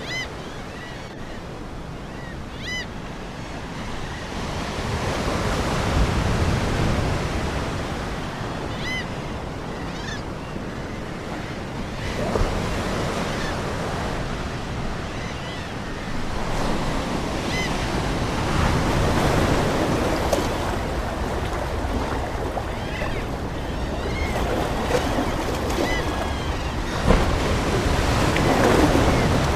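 Ocean waves breaking and washing on a shore, the surf swelling and ebbing every few seconds, with short, scattered seagull calls over it.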